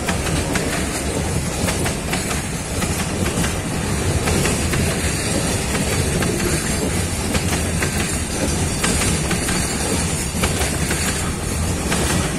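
Loaded freight train passing at speed: a steady rumble of the wagons' wheels on the rails, with many sharp clacks as the wheels cross rail joints.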